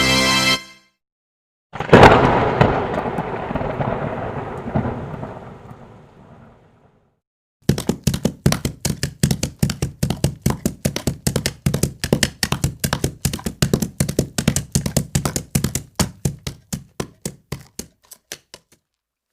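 A thunderclap: one loud crack about two seconds in, followed by a rumble that dies away over about five seconds. After a short silence comes a long run of sharp cracks, about five a second, that thins out and stops near the end.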